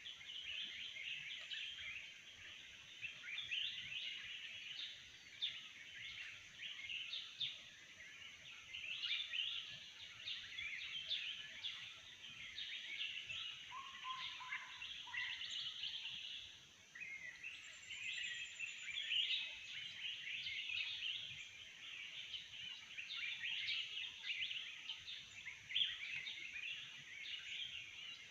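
Many forest birds chirping and calling over one another without pause, over a steady high-pitched hum; a brief lower call sounds about halfway through.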